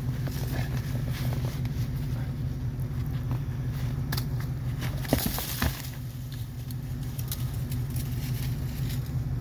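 1994 GMC Yukon's engine running steadily, with scattered clicks and two short knocks about five seconds in.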